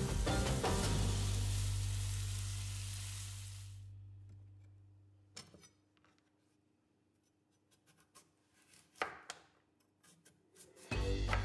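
Food sizzling in a frying pan under background music, both fading out over the first few seconds. Then comes a quiet stretch with a few sharp knocks, and music comes back in near the end.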